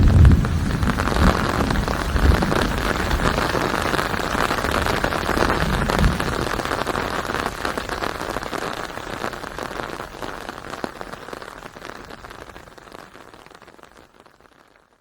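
Steady rain with a low rumble at the start and another about six seconds in. The sound fades out gradually over the second half, dying away to near silence.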